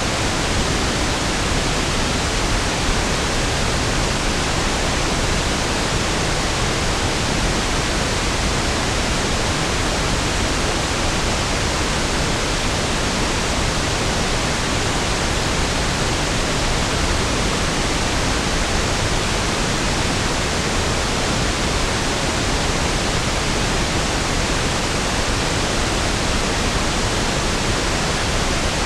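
Steady pink noise: an even, unchanging hiss spread over all pitches with equal energy per octave, smoother and deeper than white noise.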